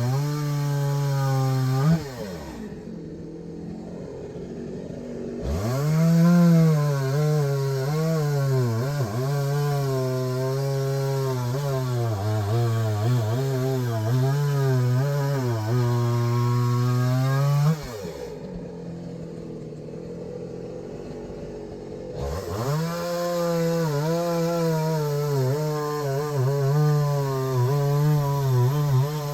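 Two-stroke chainsaw cutting logs, its engine at high revs with the pitch wavering as the chain bites into the wood. Twice it drops back to idle for a few seconds, then revs up again for the next cut.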